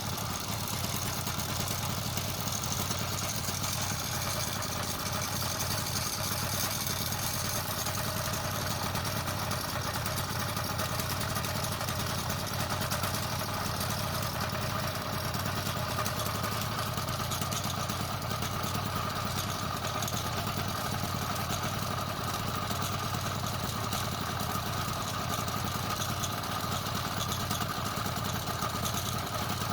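Motorized bicycle's kit engine running steadily at an even speed, driving a chain that wobbles and makes noise because some of its links are bad.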